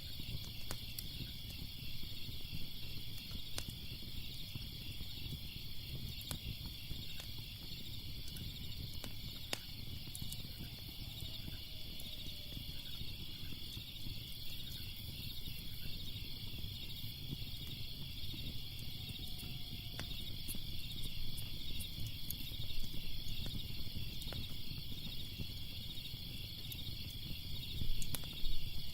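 Crackling fire with scattered sharp pops and a low rumble, over a steady chorus of chirping crickets.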